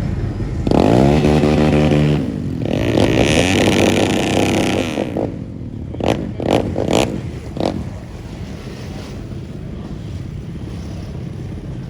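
A car engine revving hard, rising and held at high revs twice with a loud hiss over the second rev, then a few sharp cracks, before settling to a lower steady rumble.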